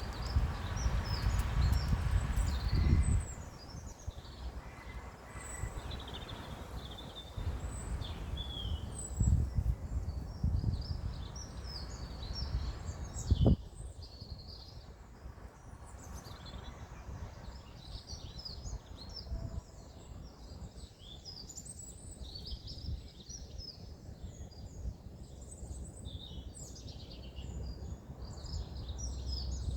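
Several songbirds singing and chirping together in quick high trills and notes throughout. A low rumble sits under them for the first three seconds and again around ten seconds in, and a single sharp knock comes about thirteen seconds in.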